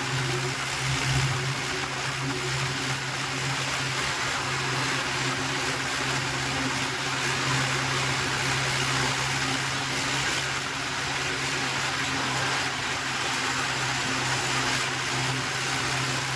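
Tractor engine running at a steady, unchanging pitch with a constant low hum, over a steady hiss of wind and road noise.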